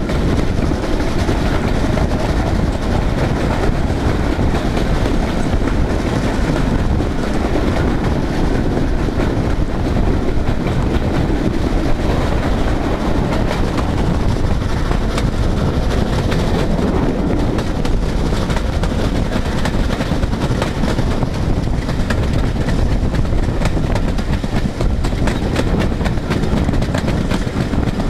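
A steam-hauled passenger train running along the track, heard from an open coach window: a steady rumble with the clatter of the coach wheels over the rails.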